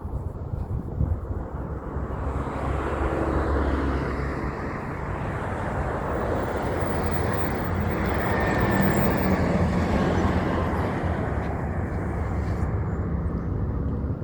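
Heavy trucks driving past on a road: engine drone and tyre noise that swells and fades, loudest about three to four seconds in and again around nine seconds in.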